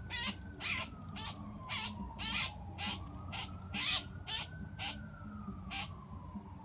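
Blue jay screaming in distress while pinned and plucked by a hawk: about a dozen harsh, raspy screams, roughly two a second. A siren wails faintly behind, slowly falling and rising in pitch.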